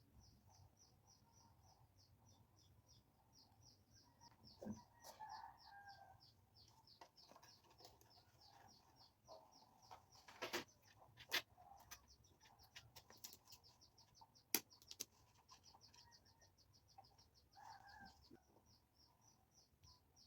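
Faint, high, rapid chirping from a small animal, very even at about four chirps a second, with a few sharp clicks in the middle.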